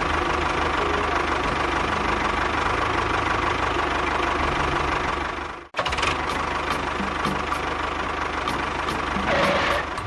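An engine-like motor running steadily with an even, rapid pulsing. It cuts out abruptly for an instant about halfway through, then runs on at the same level.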